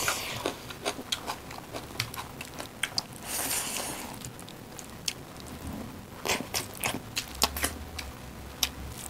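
Close-up eating sounds: chewing with wet mouth clicks and smacks, irregular and scattered, as mouthfuls of rice with dal and chicken curry are eaten by hand.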